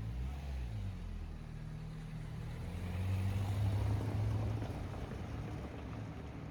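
A motor vehicle's engine running, its pitch shifting in the first second and growing loudest about three to four seconds in.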